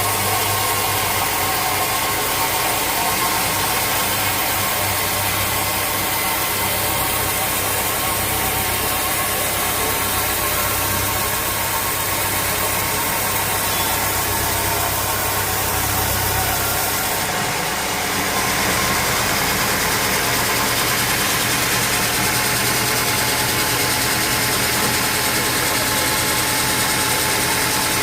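Sawmill machinery running steadily with an engine-like hum. The low hum shifts in pitch about two-thirds of the way through, with a short hiss at the change.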